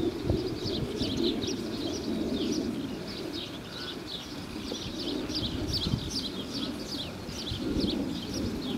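Small birds chirping without pause in quick, high, falling notes, over a steady low background sound with a few soft thuds.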